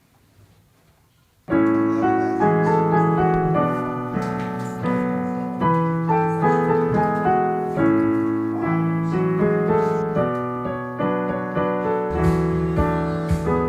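A short quiet gap, then piano music starts about a second and a half in and plays on with a steady pattern of notes.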